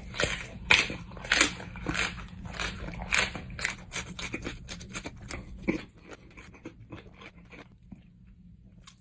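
A person chewing a mouthful of raw habanero peppers, with crisp crunches one or two a second that thin out after about six seconds.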